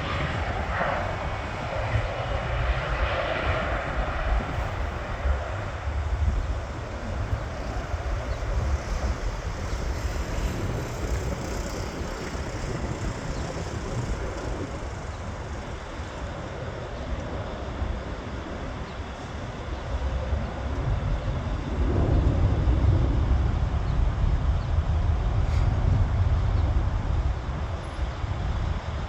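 Jet engines at takeoff thrust. The broad engine noise is loudest at first and fades over the first several seconds as the aircraft climbs away. A deep low rumble swells again about two-thirds of the way through.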